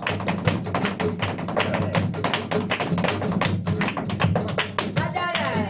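Flamenco dancer's zapateado footwork: a fast, dense run of heel-and-toe strikes on the stage, played over flamenco guitar in a tientos.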